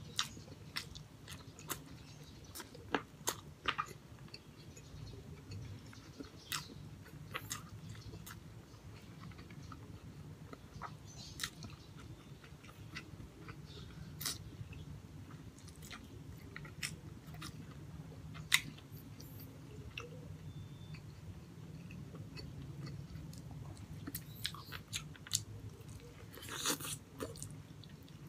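Chewing of braised pork hock and rice: wet mouth clicks and smacks scattered throughout, coming thicker near the end as a piece of hock is bitten.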